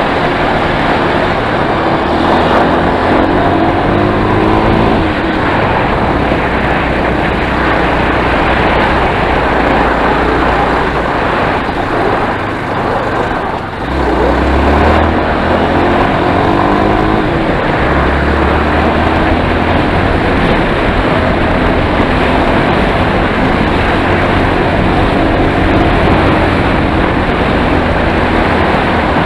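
Enduro motorcycle engine running under way, with a steady noisy rush around it. The engine note climbs twice, a few seconds in and again just past the middle, after a brief dip in level.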